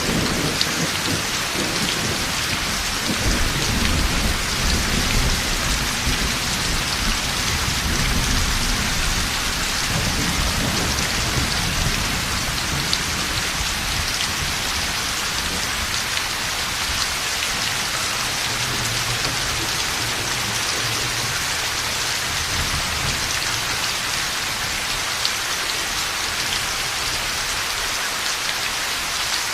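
Heavy steady rain with rolling thunder. The thunder rumbles heavily through the first third, then dies down to lighter, distant rumbles under the rain.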